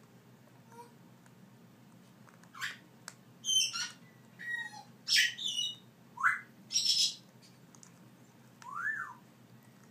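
Young African grey parrots giving a run of short, sharp squawks and calls, several gliding up in pitch and the last one rising and falling.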